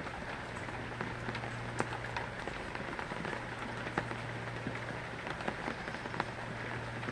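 Heavy rain falling steadily, with scattered sharp drip and drop hits, over a steady low hum.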